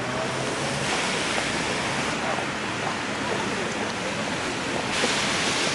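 Steady hiss of rain on a wet city street, stepping up in loudness about a second in and again near the end.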